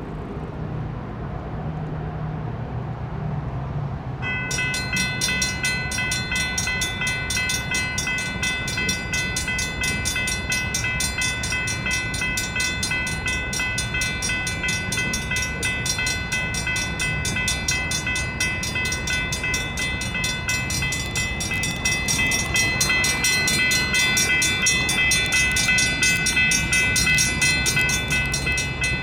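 Railroad crossing bells, a GS Type 3 electronic bell and a Safetran hybrid bell, start ringing suddenly about four seconds in and keep up a rapid, steady clanging. Under them is the low rumble of the approaching excursion train, which grows louder near the end.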